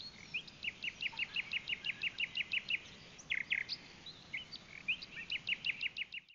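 A songbird singing a run of short, quickly repeated chirps, about six a second, then a few louder notes, then a second, shorter run near the end.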